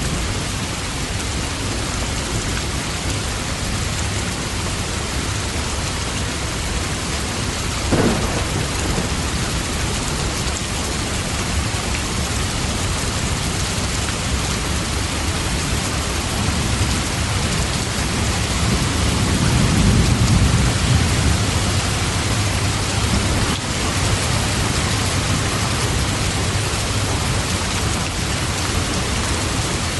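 Steady rain falling, with a short sharp crack about eight seconds in and a low rumble of thunder swelling and fading around twenty seconds in.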